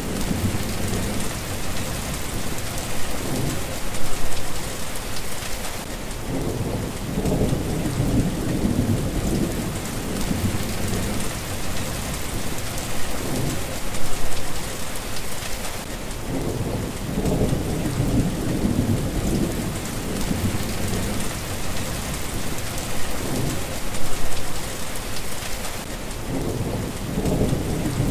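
Steady rain falling, with low thunder rumbling several times.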